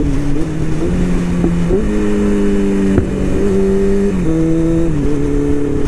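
Motorcycle engine running under way over steady wind noise, its note stepping up about two seconds in and dropping back about four seconds in.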